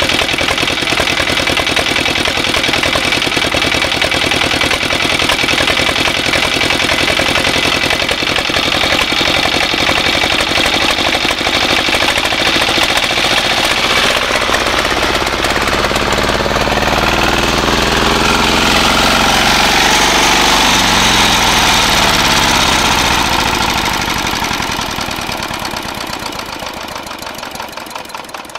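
Walk-behind tractor engine in runaway, racing uncontrolled at high speed with a hard knocking beat. From about 16 s its pitch shifts, and from about 24 s it slows and fades, winding down toward a stop.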